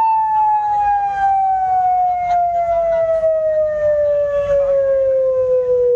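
A single loud tone played through a large PA sound system, gliding slowly and steadily down in pitch like a siren winding down, over a low rumble.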